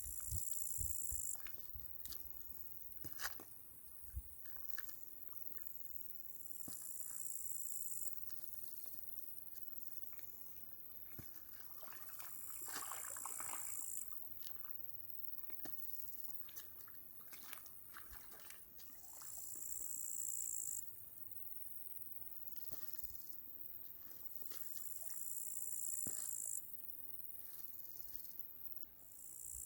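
Crickets trilling in high-pitched bouts of one to two seconds, coming about every five or six seconds, with scattered faint clicks and taps between.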